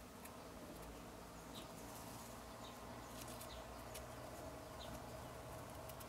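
Faint, short, high bird chirps, one every second or so, over a low steady hum.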